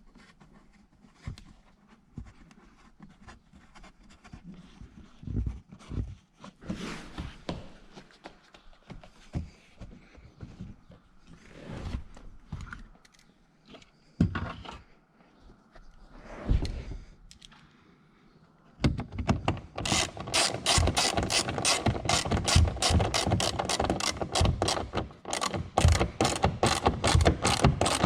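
Scattered handling clicks and knocks, then from about two-thirds of the way in a hand ratchet wrench cranked in quick strokes, its pawl clicking rapidly as fasteners are run in.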